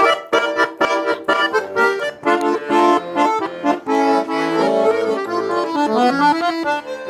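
Russian garmon (button accordion) playing an instrumental passage between verses of a folk-style song: a quick melody over chords, with a rising run of notes near the end.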